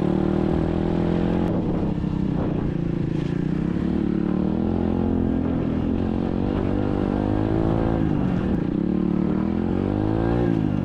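SSR 125cc dirt bike's single-cylinder four-stroke engine running while riding, its revs rising and falling with the throttle; the revs dip about two seconds in and again around eight seconds, then climb and drop near the end.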